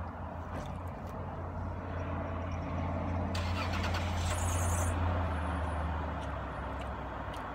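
Car engine running close by, a low steady hum that swells for a couple of seconds in the middle, then eases off.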